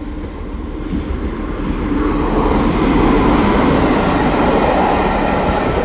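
Class 47 diesel locomotive 47813, with its Sulzer twelve-cylinder engine, coming through the station: engine note and wheel-on-rail rumble that build from about a second in and stay loud.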